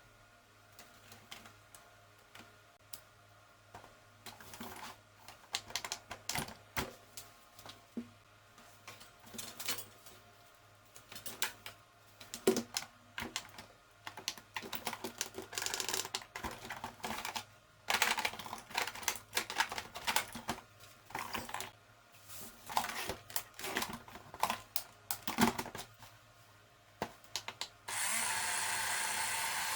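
Irregular clicks, taps and knocks of hard plastic parts being handled on a robot vacuum. About two seconds before the end, a small motor starts and runs steadily.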